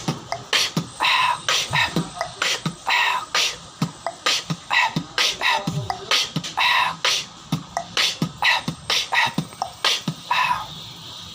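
Human beatboxing: a fast, dense run of mouth-made kick, snare and hi-hat sounds, several strokes a second, with a few short pitched vocal sweeps. It thins out near the end.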